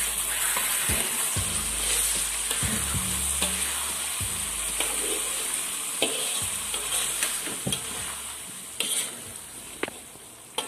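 Thick sardine sambal sizzling in a wok while a spatula stirs and scrapes through it, with scattered clicks of the spatula against the pan. The sizzle fades gradually toward the end.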